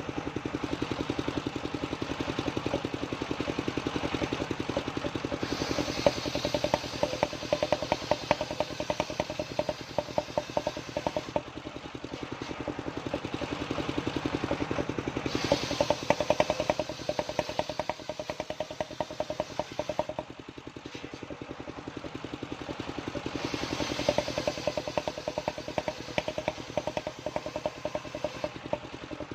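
Engine-driven homemade sawmill running steadily, its small engine firing in rapid even pulses. Three times the sound rises with a harsher, hissing sawing noise as the blade works through waru wood.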